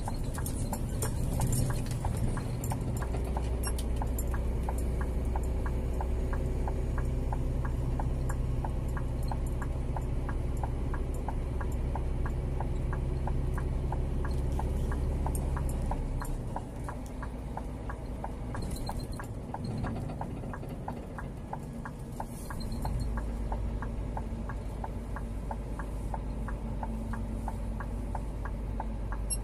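Scania G410 truck's 13-litre six-cylinder diesel engine running on the move, with a regular ticking running throughout. The engine note drops about 16 seconds in and picks up again a few seconds later.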